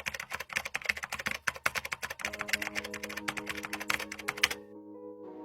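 Fast typing on a keyboard, a dense run of clicks that stops about four and a half seconds in. About two seconds in, soft music of sustained held notes comes in under the typing and carries on after it stops.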